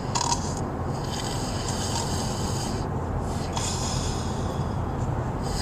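Steady low rumble of a car on the road heard from inside the cabin, with a rasping hiss that comes and goes every second or two.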